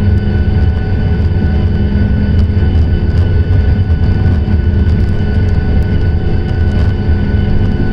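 Boeing 737-800's CFM56 jet engines running steadily: a loud, even rumble with several held whining tones over it.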